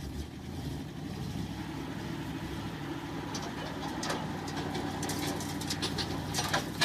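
A vehicle engine running steadily at a low hum, with scattered clicks and knocks in the second half.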